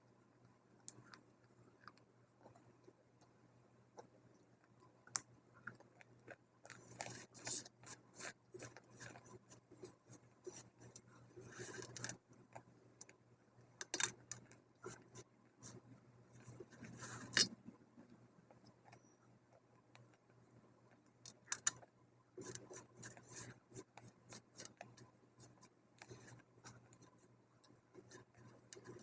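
Close-miked crunching of dry multani mitti (fuller's earth clay) being bitten and chewed: several bursts of sharp, crisp snaps and crackles separated by quieter pauses, over a faint steady hum.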